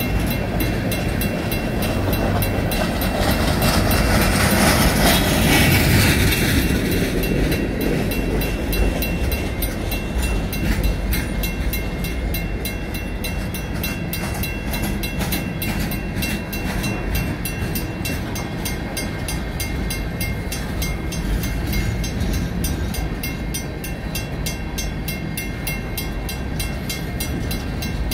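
Freight cars rolling steadily over the crossing, a rumble with clacking wheels, while the crossing's mechanical bell rings fast and without pause. The rolling noise swells louder about four to six seconds in.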